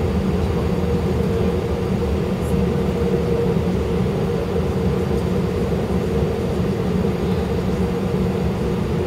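Steady cabin noise inside a British Airways Airbus A319 on the ground: the jet engines running at low taxi power as a constant hum over a low rumble.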